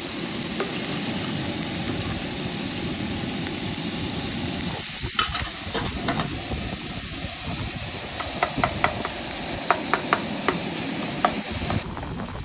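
Ground beef sizzling in a pan while a utensil stirs and scrapes it, the sharp clicks of metal on the pan coming often in the second half.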